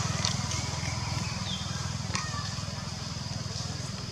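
A small engine running with a rapid, even beat, slowly getting quieter. A few faint clicks and a short high chirp about one and a half seconds in.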